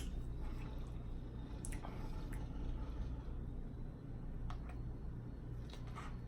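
Quiet, wet mouth sounds of someone eating: soft chewing and smacking, with a few short clicks, over a low steady hum.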